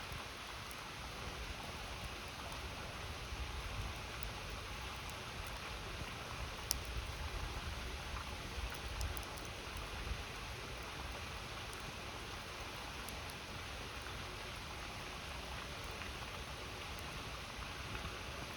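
Steady rushing of a flowing river, with a few faint, sharp crackles from a wood campfire.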